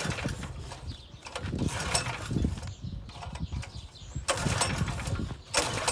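Recoil starter of a small gasoline engine being pulled several times, each pull a separate rasping stroke, without the engine catching.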